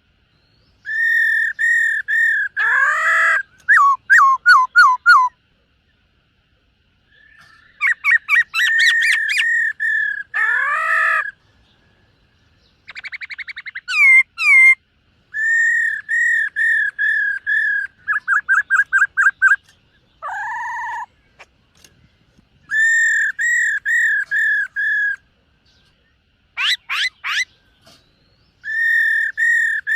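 Black-throated laughingthrush singing in loud phrases of rapidly repeated clear whistled notes, with a few notes that slide down. There are about eight phrases, separated by short pauses.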